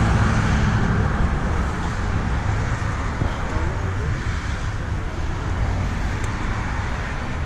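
Steady low rumble of car engines idling, with faint chatter underneath.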